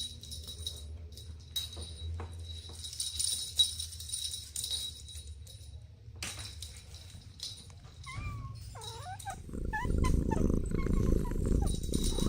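Kittens mewing: short, high cries that slide up and down in pitch, starting about two-thirds of the way through. A louder low rumbling noise joins them soon after.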